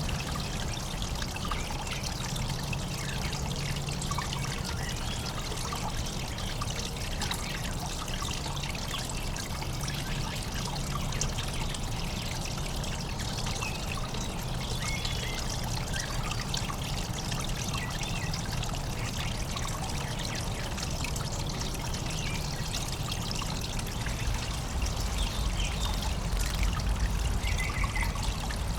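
Running water trickling steadily into a backyard birdbath. A low rumble grows louder near the end.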